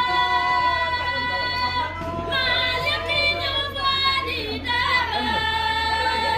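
A high-pitched voice singing long, held, slightly wavering notes without accompaniment, moving to a new note about two seconds in and again near five seconds, over a steady low hum.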